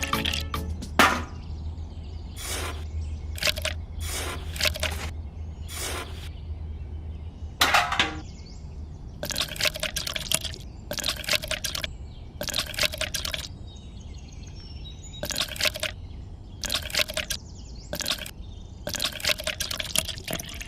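Water splashing and trickling in repeated short bursts, over a low steady hum that stops about seven and a half seconds in.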